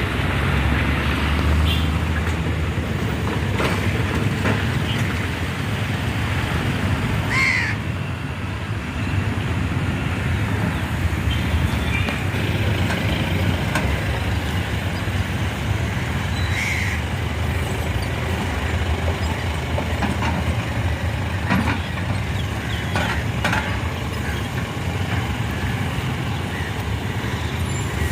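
Steady low engine rumble, with a short bird call twice, about a third of the way in and past the middle.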